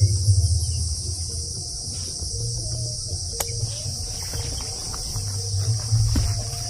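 Crickets chirping in a steady, dense chorus over a low rumble that swells and fades.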